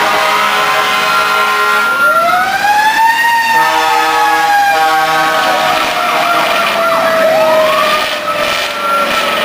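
Several fire truck sirens sounding at once. One winds up about two seconds in and falls away slowly, and another rises again near the end, over steady held tones.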